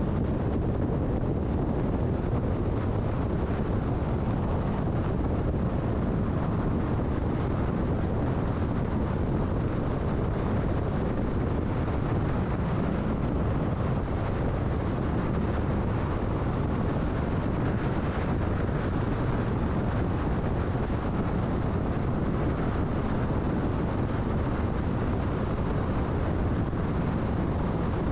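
Car driving at freeway speed: a steady rush of tyre and wind noise.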